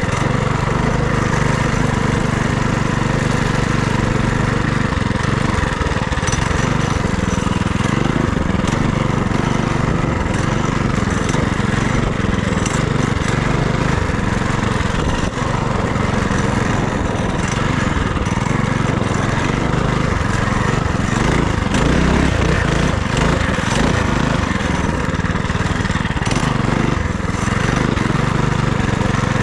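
FRP GMB100 minibike's small engine running under way, its revs rising and falling as the bike is ridden.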